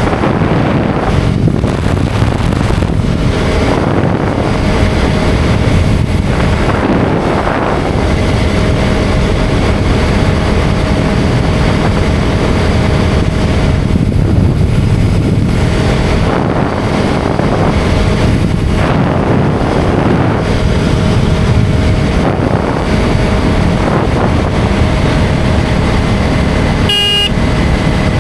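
KTM Duke 250's single-cylinder engine running steadily at road speed, with wind and road noise. A short vehicle horn honk sounds near the end.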